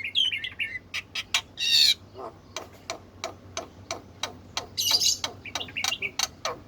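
Black-winged myna singing a varied, busy song: rapid sharp clicks mixed with short down-sweeping whistles, and harsh rasping notes about two seconds in and again near five seconds.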